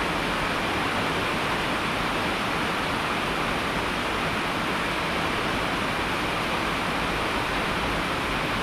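Steady, even hiss of falling water, rain or a waterfall, with no changes and no separate drops or splashes.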